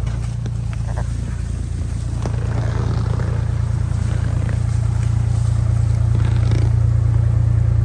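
A vehicle engine idling steadily, with a low, even hum and a few faint knocks over it.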